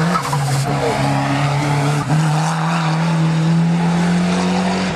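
Ford Sierra RS Cosworth race car's turbocharged four-cylinder engine pulling hard up a hill-climb course, its note stepping up in pitch about two seconds in.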